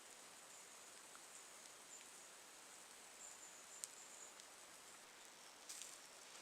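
Near silence: faint forest ambience with a thin, high-pitched trill that comes and goes, and a few small ticks or rustles, the clearest about four seconds in and a short cluster near the end.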